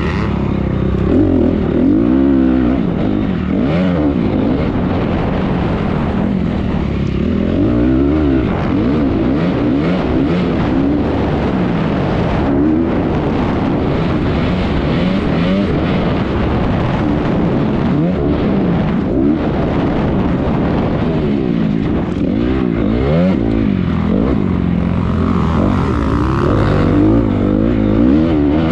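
Honda 250 motocross dirt bike engine being ridden hard round a race track, revving up and falling back again and again as it is throttled on and off.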